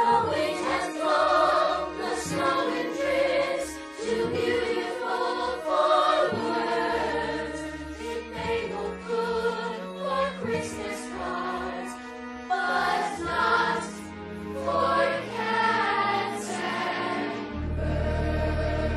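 Music with a choir singing, ending in a low sustained chord held for the last second or so.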